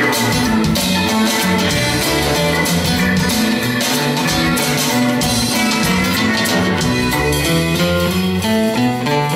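A band playing an instrumental passage led by guitar, with a moving bass line and percussion, without singing.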